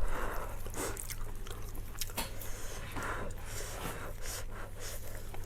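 A person chewing food, with soft wet mouth sounds and a few short sharp clicks.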